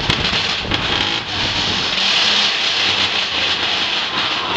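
Mine-train roller coaster running on its track: a steady rumble and rattle.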